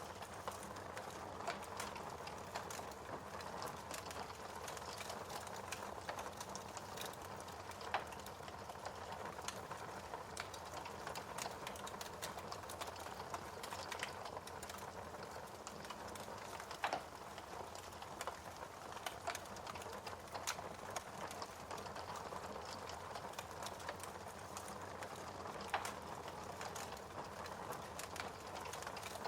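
Wood fire crackling in a fireplace: a steady soft hiss with frequent small pops and snaps, and a few louder snaps scattered through.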